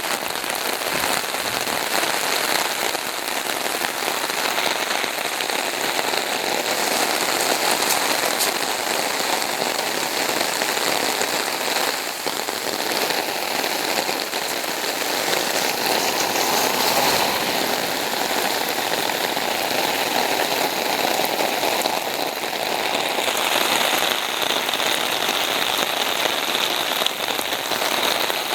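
Torrential rain pouring down steadily, a dense even hiss.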